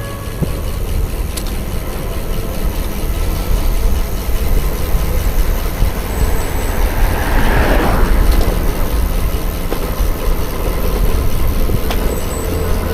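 Wind rushing over the microphone of a camera riding along on a bicycle, a steady low rumble, with a brief hissing swell about seven to eight seconds in.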